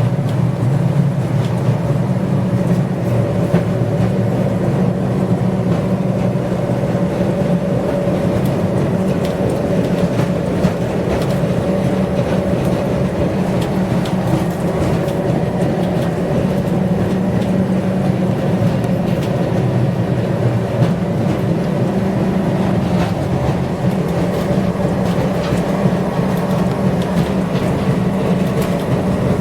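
Electric tramcar of the Kirnitzschtal tramway running steadily along its track, with a constant low hum of motor and wheels and scattered clicks of wheels over the rails.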